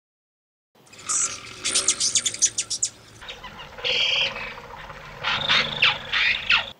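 Bird calls: a quick run of sharp, high chirps, then a short buzzy note and several squeaky chirps that fall in pitch, the later calls from a hummingbird.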